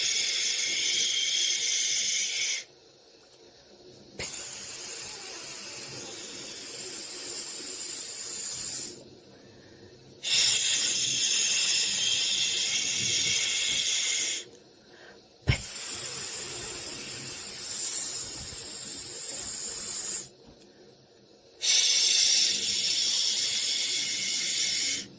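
White-noise hiss for soothing a baby to sleep, like a steady 'shhh', coming in long stretches of four to five seconds with short pauses of about a second and a half between them. A short click comes about two-thirds of the way through.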